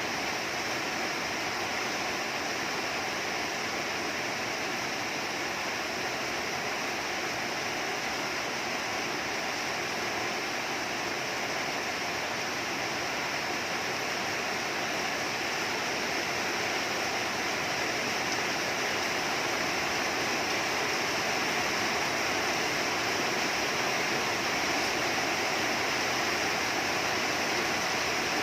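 Heavy rain falling steadily, with no breaks or distinct impacts, growing slightly louder toward the end.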